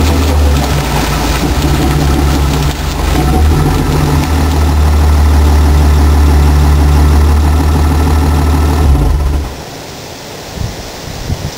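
BMW E28 525e's 2.7-litre straight-six idling close to the exhaust, a steady deep drone. About nine and a half seconds in, the engine is switched off and the sound cuts out, leaving a faint hiss and a few small knocks.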